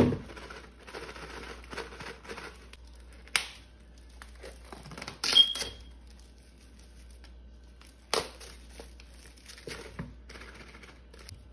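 Plastic film on packs of chicken crinkling and tearing as they are opened and handled, with three sharp clacks spread through, one with a short high squeak.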